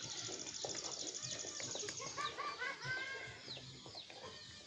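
Birds chirping: many short, falling high notes overlapping, with a fast, high trill through about the first two seconds.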